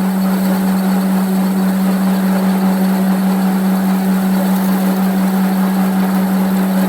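A workshop machine running with a steady, unbroken hum, carried by one strong low tone with a noisy wash above it.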